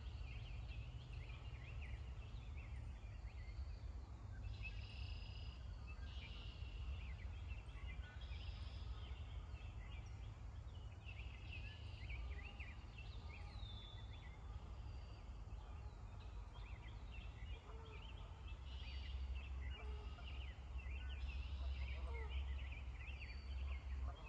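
Many birds calling at once around a pond: short, high calls overlapping throughout, over a steady low rumble.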